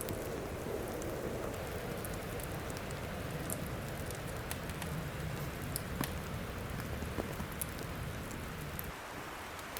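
Wood fire burning with a steady crackling hiss and a low rumble, broken by scattered sharp pops.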